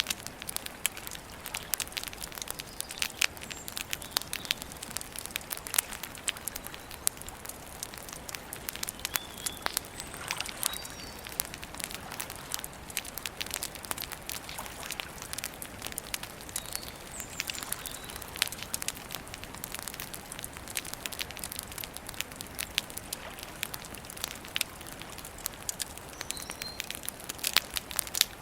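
Campfire crackling: a steady run of irregular sharp pops and snaps over a soft hiss, with a few faint high chirps now and then.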